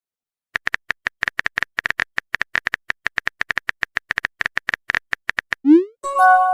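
Phone keyboard typing sound effect: rapid clicks, about eight to ten a second, for about five seconds. They are followed by a quick rising swoosh of a message being sent and an electronic notification chime near the end.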